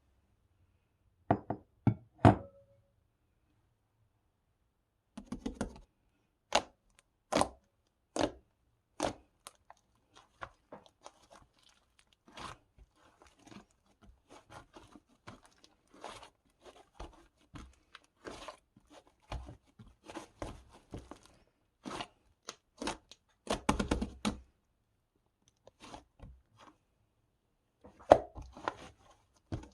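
A run of irregular sharp crunches, taps and clicks, with a few louder strikes about a second in and a dense cluster about 24 seconds in.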